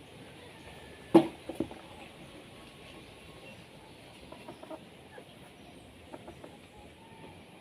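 Chicken clucking: one loud, sharp cluck about a second in, two quieter ones right after, then a few faint short clucks.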